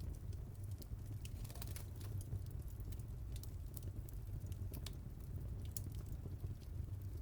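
Wood fire crackling: scattered sharp pops and snaps, irregular and clustered in places, over a steady low rumble.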